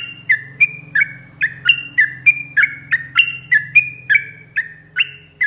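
Sooty-headed bulbul (trucuk) singing a long run of sharp, evenly repeated notes, nearly three a second, over a faint low hum.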